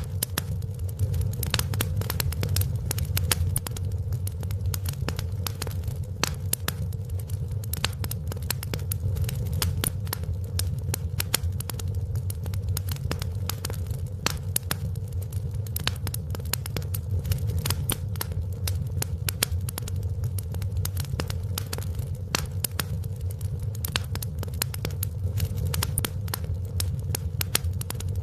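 Wood fire in a fireplace crackling: many small sharp pops and snaps at an irregular, quick rate over a steady low rumble.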